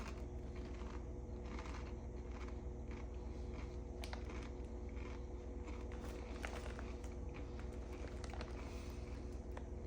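Tortilla chips being chewed with the mouth closed: soft, irregular crunches and clicks over a steady low hum.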